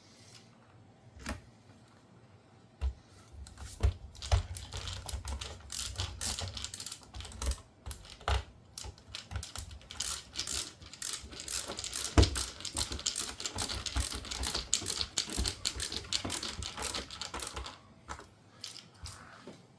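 Rapid, irregular clicking and rattling of small hard parts and hand tools being handled during dishwasher door reassembly, starting about three seconds in and stopping shortly before the end, with a few heavier knocks.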